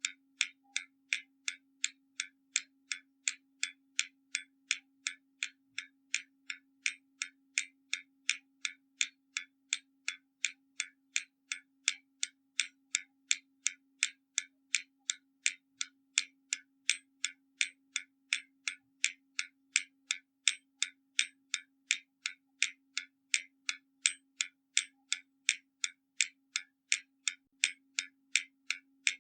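Hermle mechanical skeleton clock's escapement ticking: quick, even ticks, roughly three a second, with a faint steady low hum underneath.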